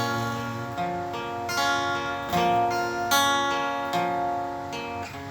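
Acoustic guitar accompaniment playing sustained chords, with a new chord about every second and no singing.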